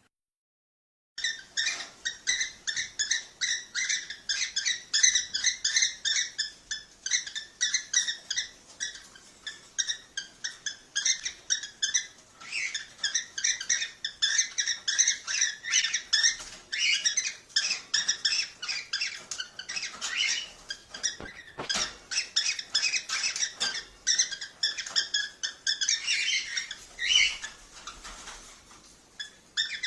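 Cockatiels chirping in a fast, continuous run of short high calls, several a second, starting about a second in.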